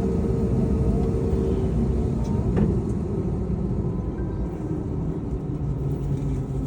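Steady low rumble of cabin noise inside an Airbus A321neo on the ground after landing, with a steady hum that stops about a second and a half in and a brief sharp click about two and a half seconds in.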